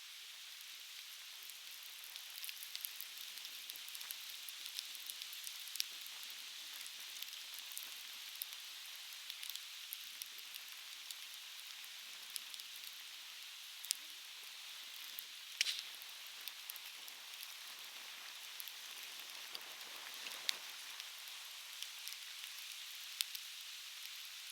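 Softwood firewood burning and crackling, with many small sharp pops at irregular intervals and a few louder ones, the loudest a little past the middle, over a steady rushing hiss of a nearby stream.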